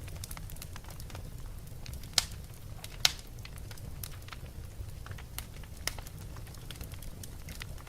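Fire burning in a fireplace, crackling with irregular snaps and two sharp louder pops a couple of seconds in, over a low steady rumble.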